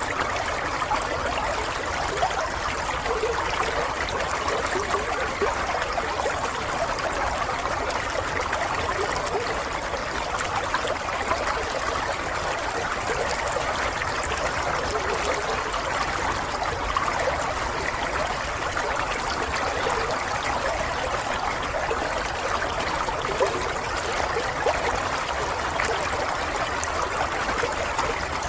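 Water trickling and babbling steadily, like a small stream, with a fine bubbling texture and no breaks.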